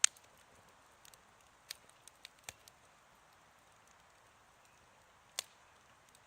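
Wood campfire crackling: sharp pops, the loudest right at the start, a few smaller ones around two seconds in and another loud one near the end, over a faint steady hiss.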